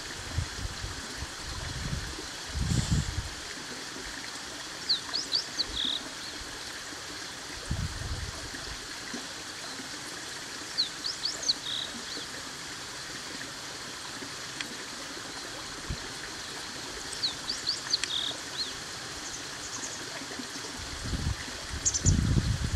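Outdoor ambience: a bird sings the same short phrase of quick chirps about every six seconds over a steady rushing hiss. A few low rumbles come and go, the loudest near the end.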